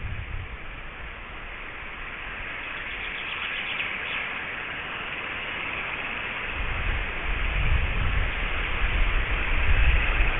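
Wind rumbling on the microphone over a steady outdoor hiss, building in the second half, with faint high bird calls about three to four seconds in.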